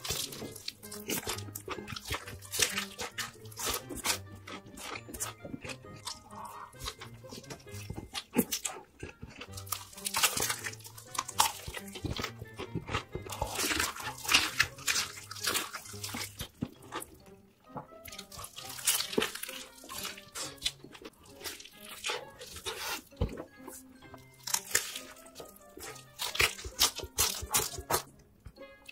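Close-miked crunching of fried chicken being bitten and chewed, crackly bursts in clusters over background music with a steady low beat.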